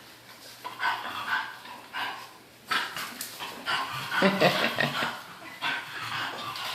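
English bulldog puppies vocalising in a run of short, high calls, about seven of them, with a louder, deeper one a little past halfway.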